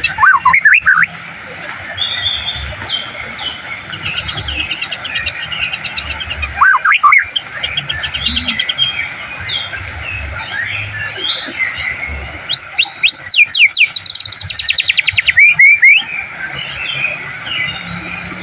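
White-rumped shama (murai batu) singing a varied song: loud phrases of rapid trills and sweeping whistles about a second in, around seven seconds and from about twelve and a half to sixteen seconds, with softer chirps and notes between.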